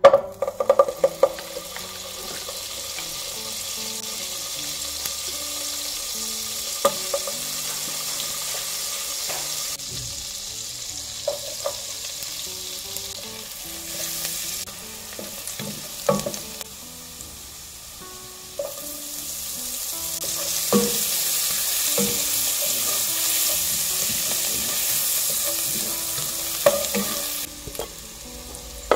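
Chopped garlic frying in melted butter in a non-stick pot, with a steady sizzle and a wooden spoon stirring and now and then knocking against the pan. The sizzle grows louder about two-thirds of the way through.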